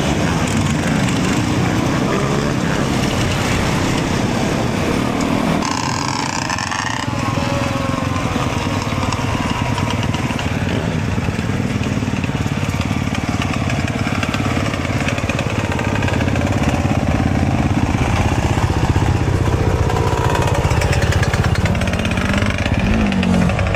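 Dirt bike engine running while being ridden, a steady loud drone with a rush of noise, and a brief change in pitch about six seconds in.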